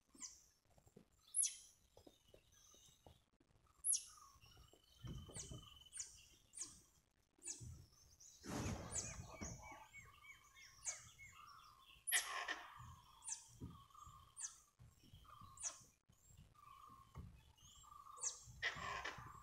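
Wild forest birds calling: many short, sharp, high chirps that drop in pitch, scattered throughout, with a few louder rustling noises, the longest about nine seconds in.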